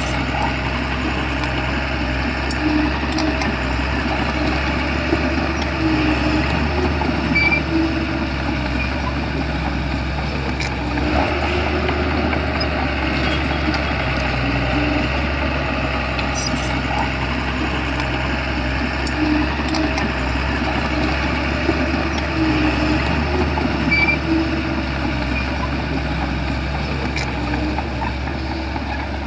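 Shantui bulldozer's diesel engine running steadily under a constant low hum, with short squeaks recurring every few seconds.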